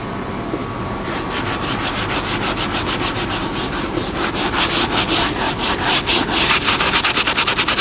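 Stiff scrub brush scrubbing a van's plastic floor in quick back-and-forth strokes, which get faster and louder over the last few seconds.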